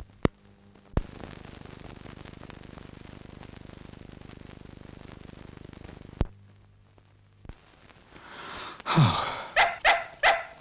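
Steady faint hiss of an old film soundtrack, then near the end a cartoon dog's voice: a breathy sigh that drops in pitch, followed by a quick run of short yaps, about three a second.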